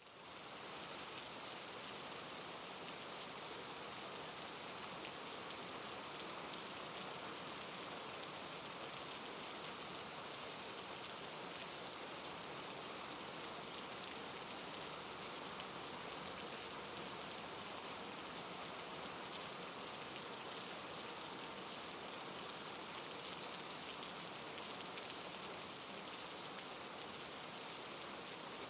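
Steady rain falling, an even hiss with a fine patter of drops, fading in quickly at the start and then holding level.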